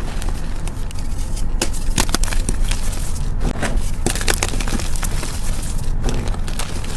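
Gym chalk being crushed by hand, a soft crunch with many small, irregular crackles as the chalk crumbles.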